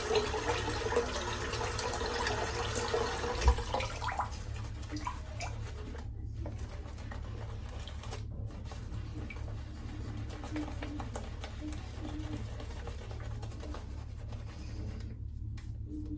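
Water running from a bathroom tap into a sink, stopping about four seconds in, over a steady low hum.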